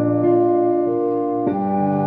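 Piano backing track playing held chords and bass notes. About three-quarters of the way through, a sustained higher melody note comes in over the piano, with a flute-like tone as the ocarina melody starts.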